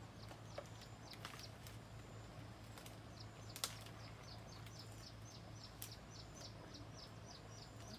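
A small bird calling a fast run of short, high, falling chirps, about three or four a second, over a faint outdoor background, with a couple of sharp clicks in between.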